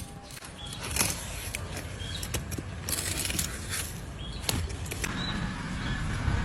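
Irregular sharp scrapes and clicks of tools cutting at a donkey's hoof during trimming, over a low steady rumble.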